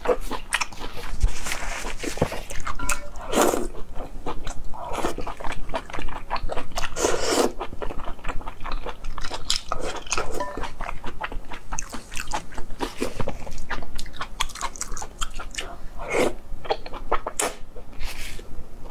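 Close-miked chewing and biting of spicy braised intestines: many small wet mouth clicks, with a few longer, louder slurps as lengths of intestine are sucked in.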